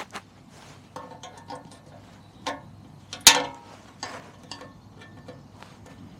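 Irregular small metallic clicks and taps of hand work on the moped's petrol-tank fittings as hose clips and parts are taken off, with one louder knock about three seconds in.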